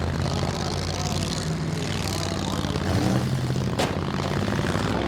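Several demolition derby car engines running loud and steady, with a sharp bang a little under four seconds in.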